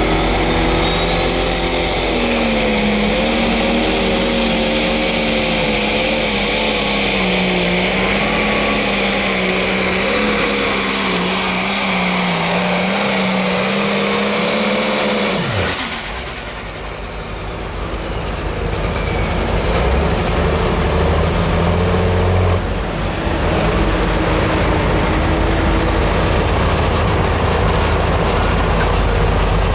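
Turbocharged diesel Pro Stock pulling tractor at full throttle under load, its pitch wavering, until it shuts down about halfway through with a sudden drop in pitch and level. After that, a lower, quieter engine rumble carries on.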